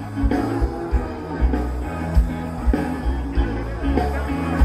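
Rock band playing live: bass line and drums with a steady kick-drum beat, no vocals.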